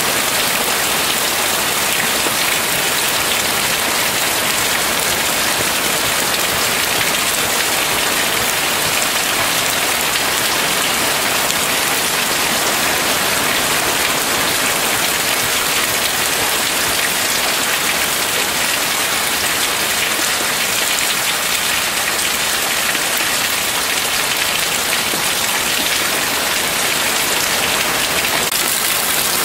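Rain falling steadily on a puddled paved driveway and lawn: an even, unbroken hiss of drops that holds at the same level throughout.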